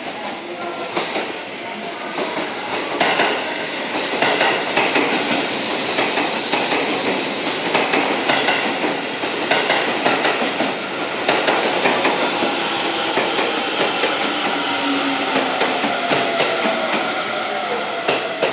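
Seibu 30000 series electric train running in along the platform: wheels clattering over rail joints in repeated knocks. In the second half a thin motor whine falls steadily in pitch as the train brakes for its stop.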